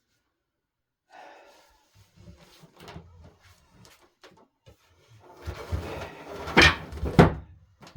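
Heavy solid-wood dining table being shifted into place: wood knocking and scraping, louder and busier in the second half, with two sharp knocks close together near the end.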